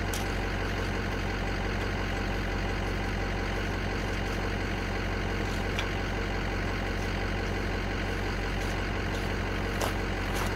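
Ford F-350 dually pickup's engine idling steadily, with a light click shortly before the end.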